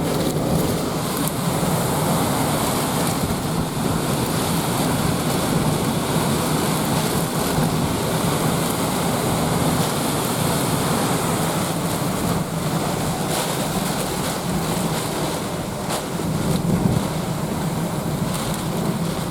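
Hurricane wind and rain blowing steadily as a dense, unbroken rushing noise.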